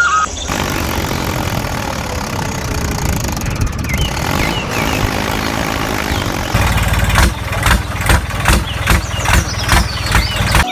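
Small single-cylinder-style mini diesel engine running steadily. About six and a half seconds in it gets louder and rougher, with an uneven knocking beat of about two to three pulses a second.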